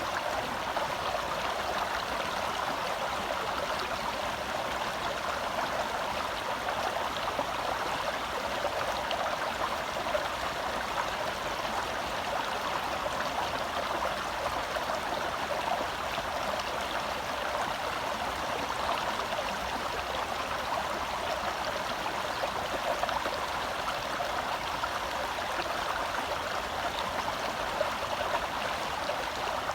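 Gentle forest stream flowing: a steady, even rush of water with no breaks.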